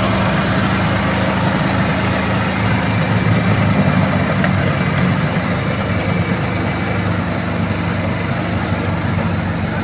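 Volkswagen Beetle engine running steadily at idle, a low, even drone.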